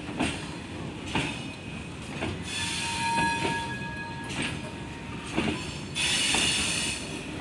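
Freight train of open wagons rolling past: the wheels knock over the rail joints roughly once a second over a steady rumble. A thin wheel squeal with a hiss rises about a third of the way in, and a louder hiss comes again near the end.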